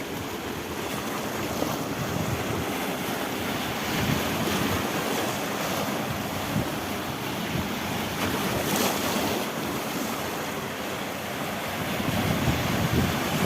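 Mediterranean sea waves washing and breaking against a rocky shore, a steady surf noise that swells slightly now and then, with wind buffeting the microphone.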